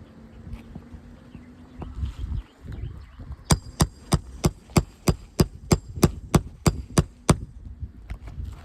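Hammer striking a metal roof snake (shingle nail ripper) in a quick, even run of about thirteen ringing metallic blows, roughly three a second, starting a few seconds in: the tool being driven under a shingle to cut out a nail.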